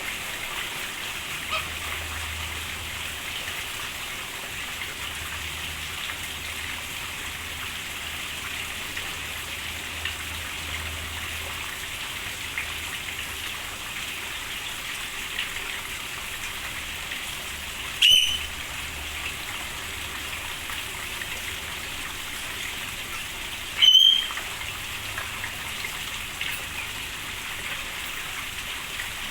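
Steady rain hissing. Two short, loud bird calls break through, one about eighteen seconds in and another about six seconds later.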